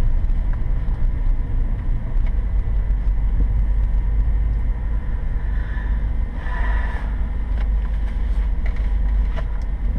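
Deep, steady cabin drone of a BMW M3 E92's 4.0-litre V8 and its tyres at low speed, picked up by a GoPro mounted on the seat. A short higher-pitched sound comes about six and a half seconds in.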